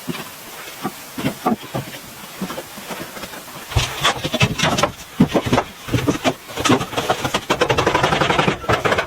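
A run of quick scraping strokes and knocks, sparse and quieter at first, then denser and louder from about four seconds in.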